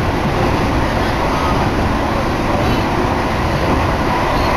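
Commuter electric train running at speed, heard from inside the carriage: a loud, steady rumble of wheels on rails and running noise.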